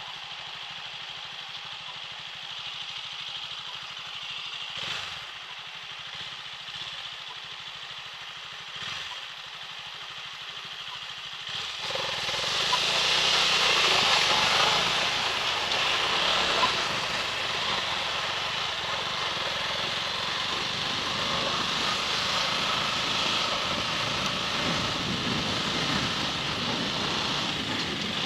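Motorcycle engine idling with a steady low pulsing. About twelve seconds in it pulls away, and a louder rush of wind and road noise rises over the engine and stays as it rides on.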